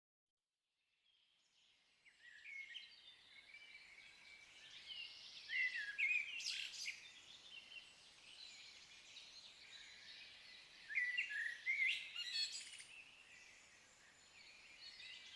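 Birds singing: repeated short chirps and quick gliding notes over a faint outdoor hiss, starting about two seconds in, with louder phrases around six seconds in and again around eleven to twelve seconds.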